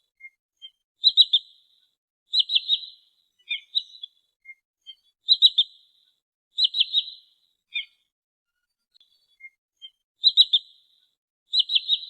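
Sandpiper calling: quick bursts of three or four high notes, in pairs of phrases that repeat about every four seconds, with faint single peeps in between.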